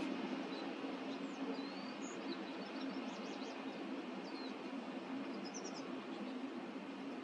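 Steady wind noise with a low hum under it, and small finches giving many short chirps and quick rising call notes, a cluster of them near the middle.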